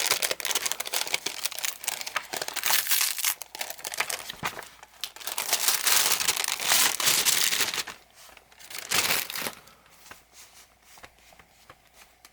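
Paper crinkling and rustling as it is handled, dense for the first eight seconds or so, with one more short rustle about nine seconds in, then only a few faint ticks.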